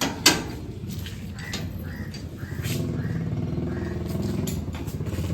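A motorbike engine running with a fast pulsing rumble, getting a little louder about three seconds in, with a sharp click a fraction of a second in.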